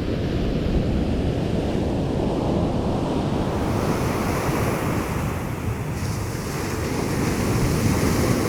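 Ocean surf washing steadily onto the beach, with wind buffeting the microphone. The hiss of the surf grows brighter about three and a half seconds in.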